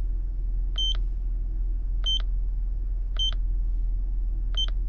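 A short, high electronic beep repeating evenly about every 1.2 seconds, four times, over a steady low rumble.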